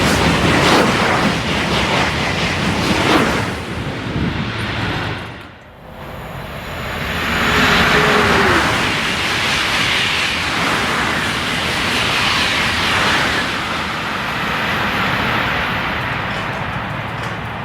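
High-speed TGV trains passing through the station at speed, a loud rushing noise of air and rails. It falls away sharply about six seconds in, then a second loud pass builds up and holds.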